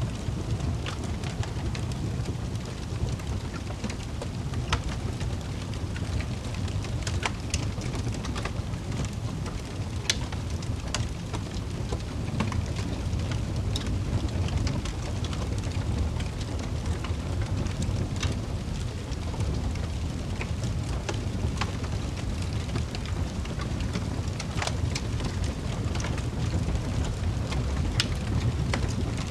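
Log fire crackling in a fireplace: scattered sharp pops and snaps at irregular intervals over a steady low rumble.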